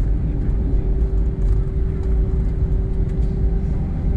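Airbus A320 cabin noise from inside the cabin: a steady deep rumble of the engines and airframe, with a faint steady hum above it.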